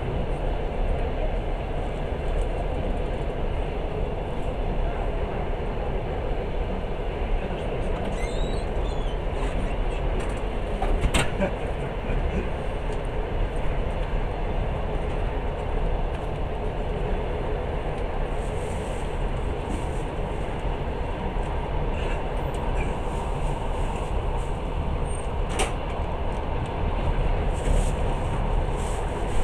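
Steady running noise of a passenger train carriage heard from inside while under way, with a sharp click about a third of the way through and another near the end.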